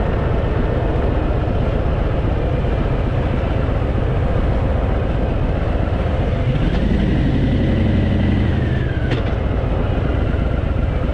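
Harley-Davidson V-twin motorcycle engine running under way, its pitch rising about six seconds in, holding, then easing off near nine seconds.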